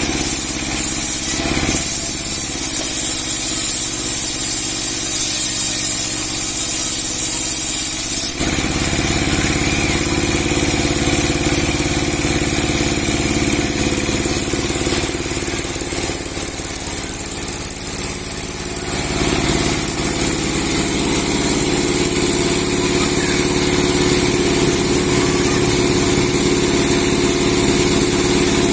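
A large 30 hp sawmill machine with a 60 cm steel blade running steadily. Its sound changes abruptly about 8 seconds in and again about 19 seconds in.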